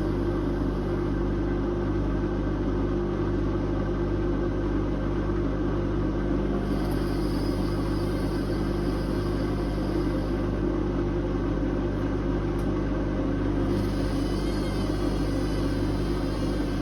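Whirlpool Indiana 1400 front-loading washing machine running mid-cycle: a steady motor hum and rumble, with a higher hiss that swells twice.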